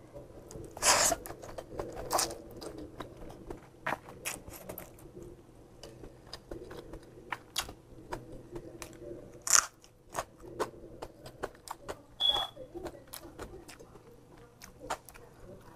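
Close-miked eating sounds: a person chewing a mouthful of fried glass noodles and fish, with scattered wet smacks and small crunchy clicks, the loudest about one, two and nine and a half seconds in.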